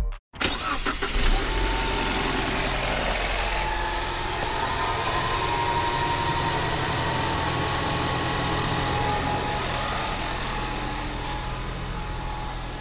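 2016 Ford Mustang's engine idling steadily and quiet, run on fresh oil just after an oil change.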